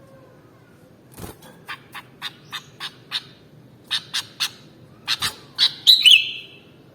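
Sooty-headed bulbul calling: a run of short, sharp chirps, about three a second, starting about a second in. After a brief pause a second run follows and ends in a louder, drawn-out slurred note near the end.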